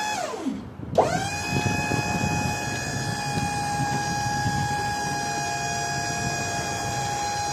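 Electric hydraulic pump motor of a box truck's power lift gate: a short run that winds up and back down, then a click about a second in as it starts again, spinning up quickly and running steadily with a whine.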